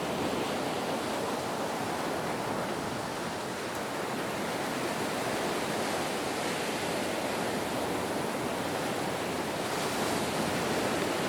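Ocean surf: a steady, unbroken rush of waves.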